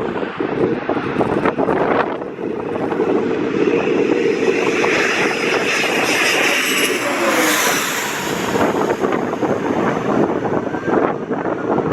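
Cessna Citation CJ3 business jet's twin turbofan engines whining as it passes low on its landing approach, building up and then falling in pitch as it goes by about seven seconds in. Wind buffets the microphone throughout.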